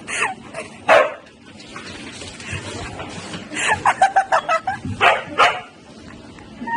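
A dog barking in short sharp barks: one loud bark about a second in, a quick string of barks in the middle, then two more.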